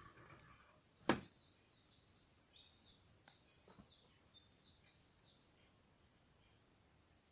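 A songbird singing a quick run of short falling chirps, with a sharp pop about a second in and two softer pops later, typical of burning wood crackling in a campfire.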